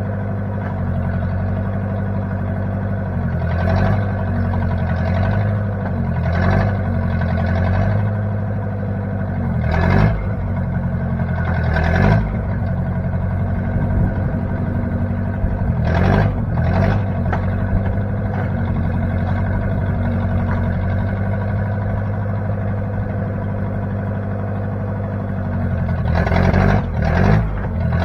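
Engine of a 1960 Case 540 backhoe running steadily, with several sharp clanks scattered through, a few of them close together near the end.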